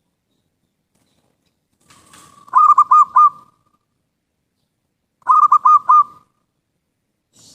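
Zebra dove (perkutut) cooing: two short phrases of about four quick notes each, roughly three seconds apart.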